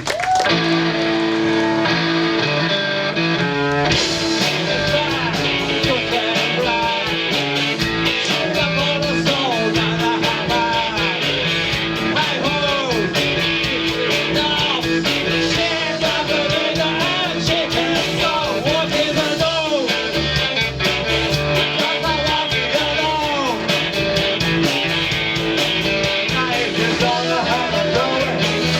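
Rock and roll band playing live, led by guitar; the full band comes in about four seconds in.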